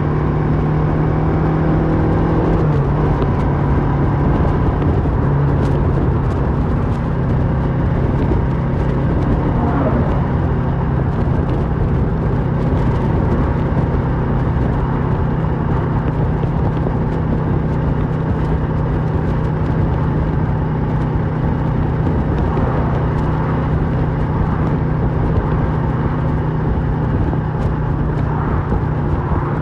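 Kawasaki Versys 650's parallel-twin engine through a MIVV slip-on exhaust, running steadily while riding along, over a constant rush of noise. The engine note shifts slightly about two to three seconds in, then holds steady.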